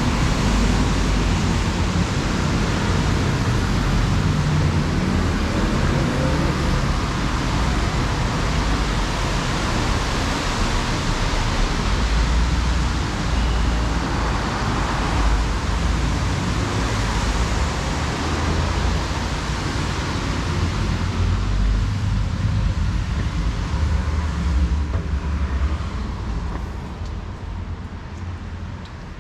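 Road traffic: a steady din of passing vehicles with a deep rumble, easing off in the last few seconds.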